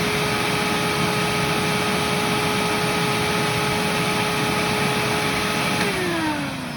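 2003 Hoover WindTunnel U6432-900 upright vacuum's motor running with a steady whine, its brushroll flat belt removed. Near the end it is switched off and the whine falls in pitch as the motor spins down.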